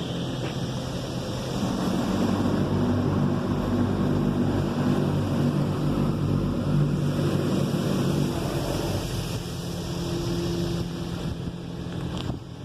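Oasis XP car wash high-pressure rinse jets spraying water against the van's body, heard from inside, over the steady hum of the wash machinery. It swells about a second and a half in and eases off after about eight seconds as the spray moves along the vehicle.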